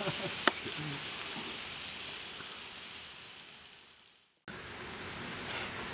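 Food sizzling and hissing in a pan over a campfire, with a single sharp click about half a second in. The sizzle fades out over about four seconds.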